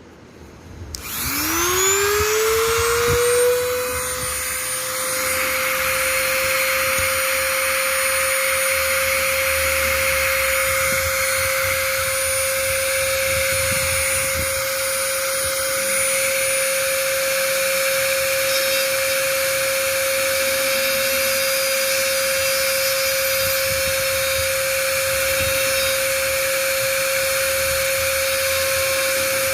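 A small high-speed electric motor starts about a second in, spins up with a quickly rising whine and then runs at a steady pitch.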